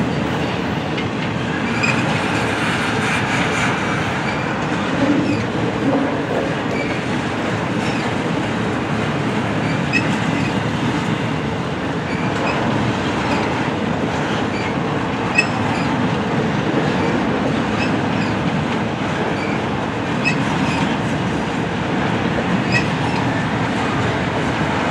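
Intermodal freight train cars rolling past, trailers on flatcars and then double-stack container cars: a steady rumble of steel wheels on rail, with short clicks every second or two as the wheels cross rail joints.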